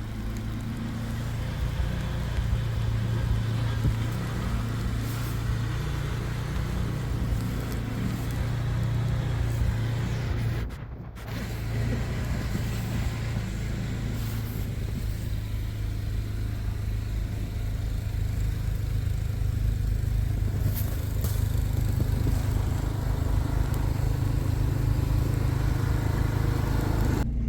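A car engine idling steadily as it warms up in freezing weather, a low even drone as heard from inside the cabin, with a brief break about eleven seconds in.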